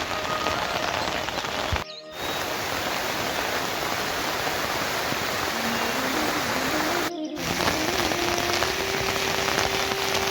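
Steady rain falling, an even hiss of drops, cut by two brief dropouts about two and seven seconds in. A faint held tone sounds over it in the second half.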